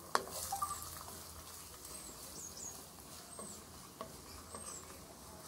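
Chopped garlic and ginger sizzling softly in hot oil in a non-stick wok, stirred with a spatula; a sharp tap of the spatula on the pan just after the start and a few lighter scrapes and taps later.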